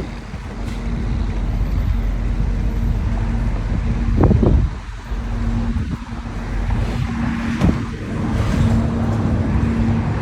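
Car engine running with a steady low rumble, briefly louder a little over four seconds in.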